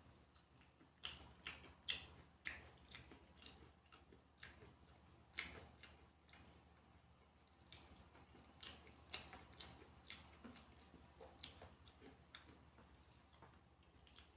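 Faint eating sounds: irregular wet mouth clicks and smacks of chewing, a few a second.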